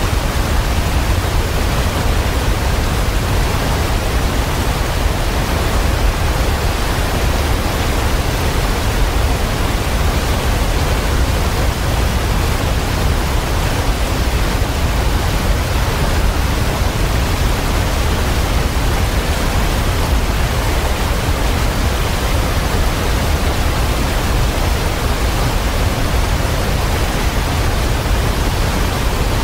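Waterfall: water pouring and splashing in a steady, unbroken rush with a deep low rumble.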